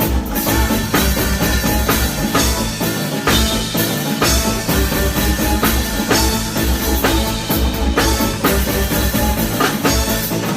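Live band playing: full drum kit with a steady bass-drum beat under bass and other instruments, no singing.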